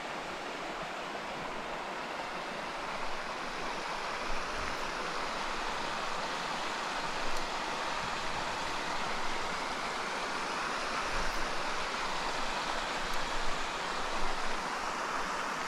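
Steady rushing of a small mountain stream flowing over rocks.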